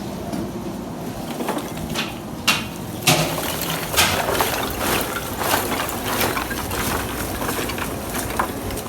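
Liquid pouring and splashing, starting abruptly and running steadily, with many sharp clicks and knocks scattered through it.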